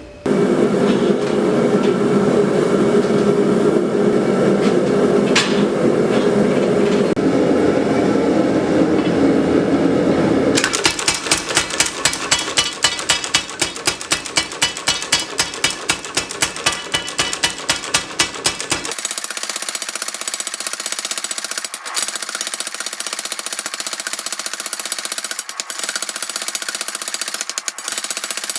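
Steady rushing noise for about ten seconds, then rapid, evenly spaced hammer blows, about four a second, as hot drill-rod steel is forged for a digging bar. The blows run on and grow denser from a little past the middle.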